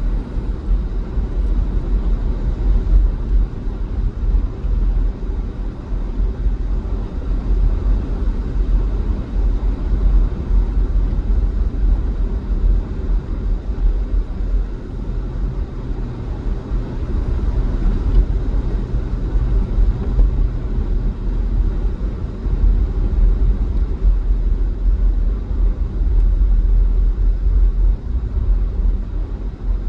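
A car driving along a highway: a steady low rumble of tyres and engine.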